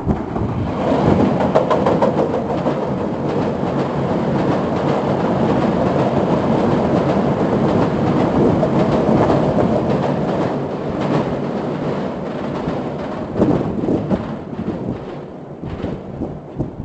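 Electric commuter train crossing an open-deck steel girder railway bridge: a loud steady rumble of wheels on the steel spans with a running clatter of knocks. It eases after about thirteen seconds into a few separate clunks as the last cars pass.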